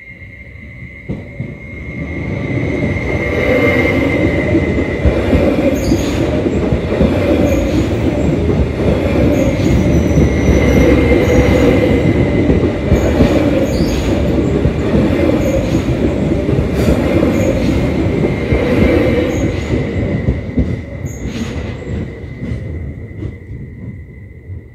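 A Stadler Flirt electric multiple unit passing over the level crossing. Its rumble builds over the first few seconds, stays loud through the middle and fades away near the end, with irregular wheel clacks over the rail joints. A steady high tone from the crossing's warning signal sounds underneath.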